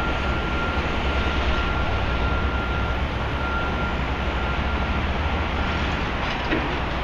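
Steady city-street and construction-site background noise: a continuous low rumble with a thin, steady high whine running through it.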